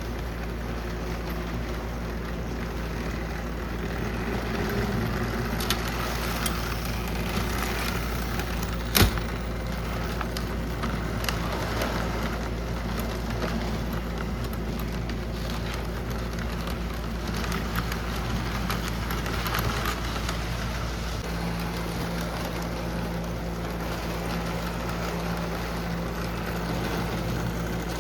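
Lionel O gauge electric model train running on the layout: a steady motor hum and rumble of wheels on the track, with one sharp click about nine seconds in.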